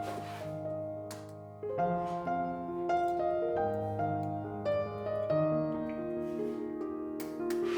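Soft background piano music, slow held chords and notes, with a few brief faint clicks or clatters over it.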